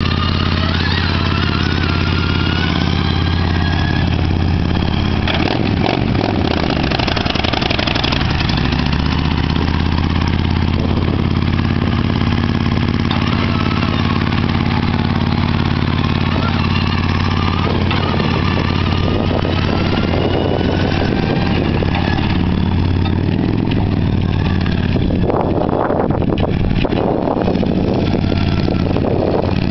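A motorcycle trike's engine idling and running steadily at low speed, with an even, unbroken low hum.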